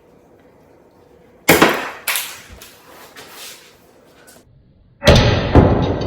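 Two loud sudden crashes or clatters: the first about one and a half seconds in, followed by lighter clatter, and the second, louder one near the end, which dies away slowly.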